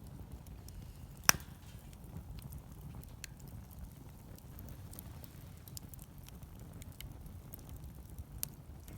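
Wood fire crackling: scattered faint pops and one loud sharp crack about a second in, with a smaller pop near the end, over a steady low rumble.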